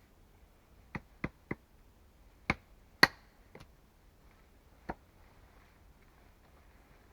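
A tool striking wood in sharp, separate knocks: three quick ones, then two louder ones, the second the loudest, then two more spaced out.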